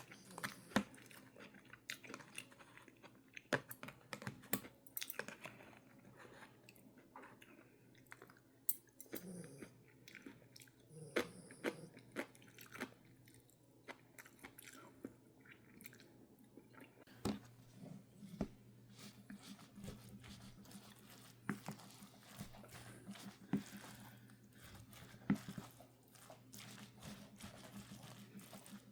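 A person chewing and biting crunchy food close to the microphone, with irregular crunches and clicks.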